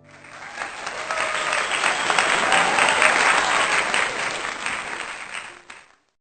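Applause from a group of people clapping, swelling in over about two seconds, then fading and stopping abruptly near the end.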